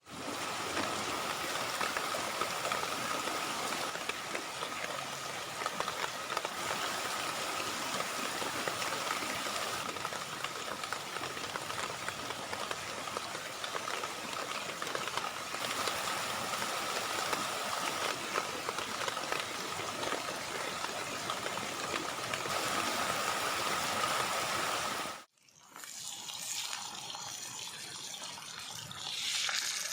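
Heavy rain falling steadily, with a thin steady high tone running under it. The sound cuts off abruptly about 25 seconds in, returns quieter and swells again near the end.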